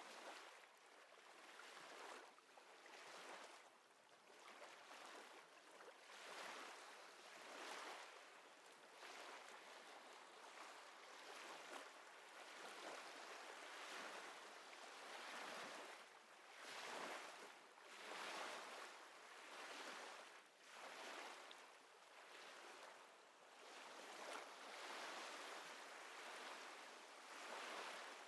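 Faint small waves lapping at the water's edge, a soft wash that swells and fades every second or two.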